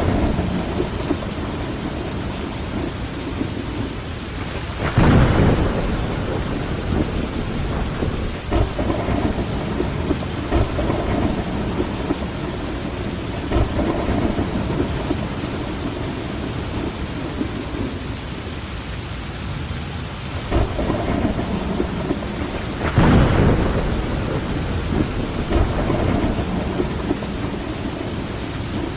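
Steady rain pattering on window glass, with low rolling rumbles of thunder. Two louder thunder claps swell up, about five seconds in and again near the end.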